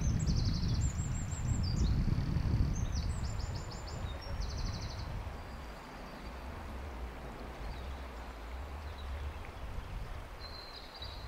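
A small songbird sings quick, high trilled phrases through the first few seconds and again near the end, over the steady rush of a river and a low rumble that fades after about five seconds.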